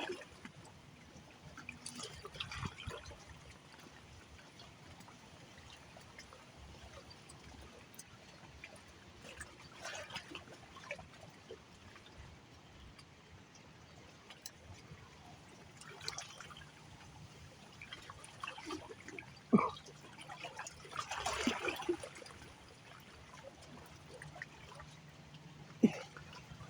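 River water lapping and trickling at the edge, with small irregular splashes every few seconds and two sharp knocks in the second half.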